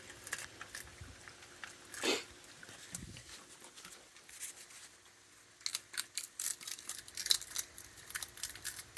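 Raccoons eating peanuts: crisp crunching and clicking, sparse at first, with a louder knock about two seconds in, then a quick run of crunches in the second half.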